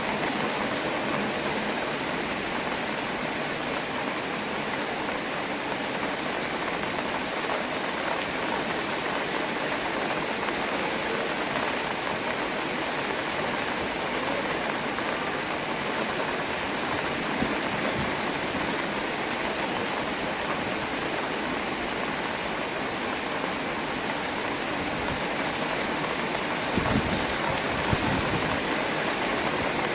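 Steady rain falling in a park beside a pond, a dense even hiss of drops, recorded on a phone. A few brief low thumps come near the end.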